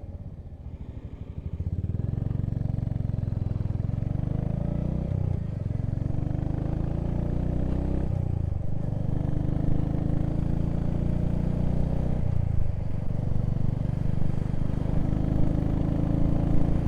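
Motorcycle engine under way, quieter for the first couple of seconds, then pulling through the gears with a drop in pitch at each shift, about five, eight and a half and twelve and a half seconds in.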